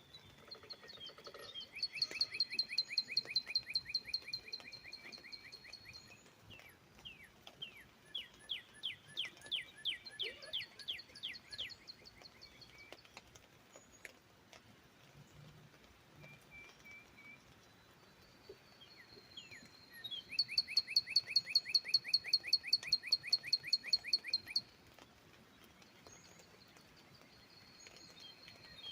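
Northern cardinal singing: three phrases of rapidly repeated notes, the middle one a series of sliding whistles, over a faint steady hiss.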